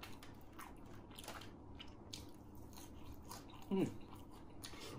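A person chewing crispy battered fried mushrooms, with faint crunching crackles throughout. A brief voiced hum with a falling pitch comes about four seconds in.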